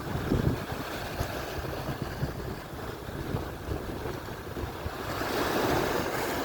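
Atlantic surf washing onto the shore, with wind buffeting the microphone; a wave's rush swells up about five seconds in.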